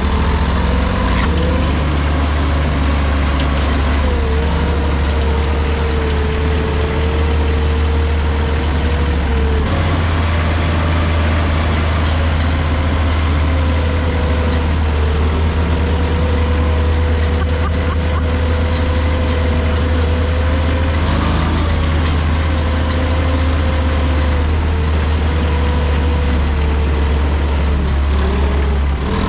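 A 1987 Ford L8000 turbo diesel truck running while being driven: a steady, loud low drone with a faint whine that wavers up and down. The drone changes tone about ten seconds in.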